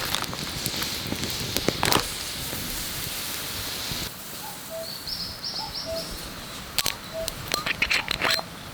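Wood fire crackling over a steady hiss. About four seconds in, the sound cuts to a quieter background with birds chirping and scattered crackles and clicks.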